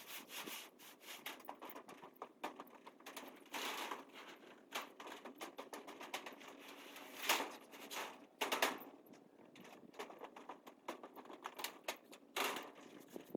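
Scattered light clicks and taps at an irregular pace, with a few louder knocks around seven and eight and a half seconds in.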